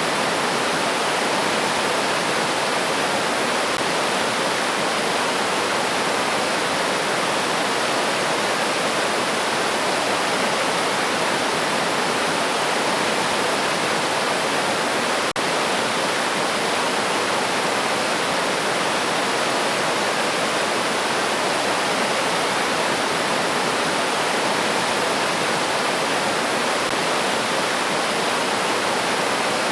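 Flowing river water, a steady dense rushing wash with no change in level. A single brief click about halfway through.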